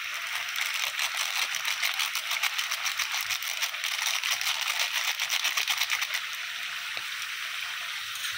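Mutton in a green coriander, green chilli and yoghurt paste frying in hot oil in a metal pan: a steady sizzle with rapid crackling and spitting that thins out about six seconds in.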